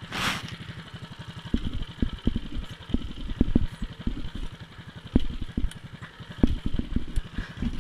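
Predator 212cc single-cylinder four-stroke mini bike engine running and revving in uneven surges, typical of the throttle being worked while the bike struggles for traction in deep snow.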